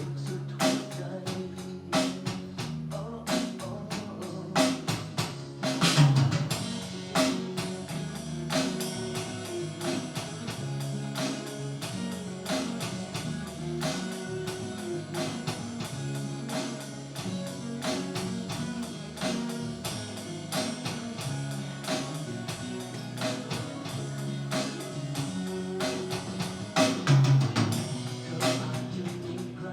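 Drum kit and ukulele playing a song together: a steady beat of drum and cymbal hits over strummed chords, with heavier drum accents about six seconds in and again near the end.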